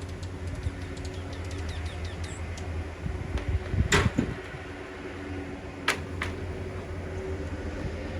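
A steady low hum, with a sharp knock about four seconds in and two shorter clicks a little before and after six seconds.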